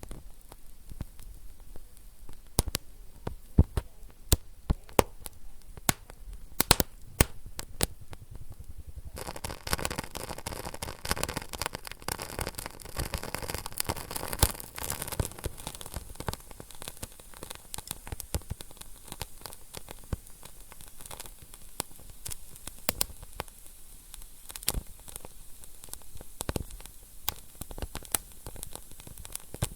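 Wood fire burning in a fireplace: irregular sharp pops and snaps of crackling logs over a soft hiss of flame. The hiss grows fuller and louder about nine seconds in.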